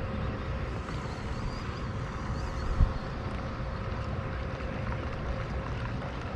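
Wind buffeting the microphone with a steady low rumble, and a single sharp thump a little under three seconds in.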